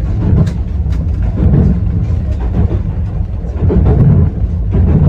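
260 series narrow-gauge electric train running along the track: a steady low rumble with a few short clicks in the first second or so.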